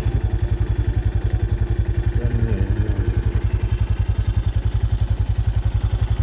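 Single-cylinder four-stroke engine of a Shineray XY250GY-6B enduro motorcycle idling, an even run of low thumps at roughly a dozen beats a second.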